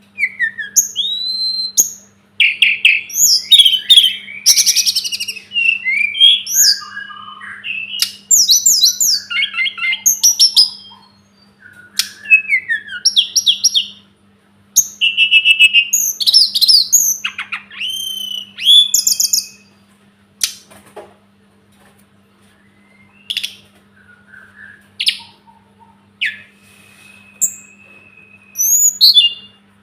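Tledekan gunung (sulingan gunung) singing: fast, varied bursts of high whistles, trills and chirps broken by short pauses. Later come sparser calls, with one long level whistle near the end. A faint steady electrical hum runs underneath.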